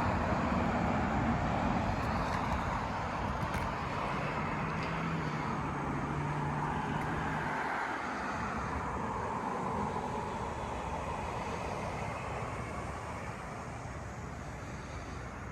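Steady outdoor rumble of distant traffic that slowly fades, with a faint low engine hum for a few seconds in the middle.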